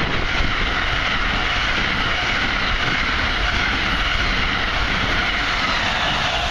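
Passenger train cars passing close by at speed: steady, loud rush of wheels on rail with a high ringing hiss.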